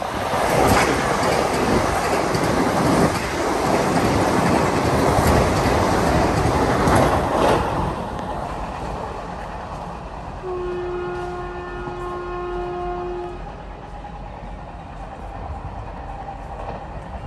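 A train passing at speed, its wheels clattering and knocking over the rail joints, dying away after about eight seconds. Then a locomotive horn sounds one steady blast of about three seconds.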